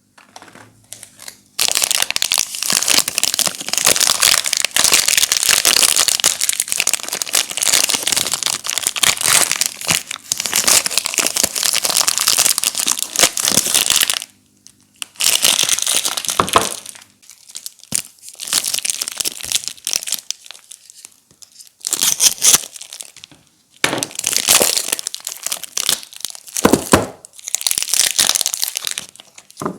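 Soap wrapper packaging being crinkled and torn open: a long unbroken stretch of crinkling from about two seconds in until about fourteen seconds, then shorter bursts of crinkling with brief pauses between them.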